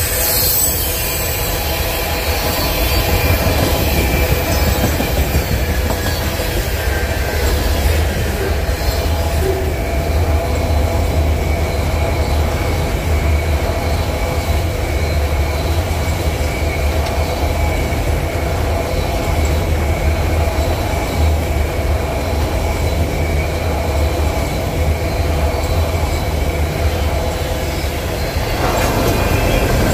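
Freight train's tank cars and autoracks rolling past: a steady rumble of steel wheels on rail, with thin squealing tones from the wheels held throughout.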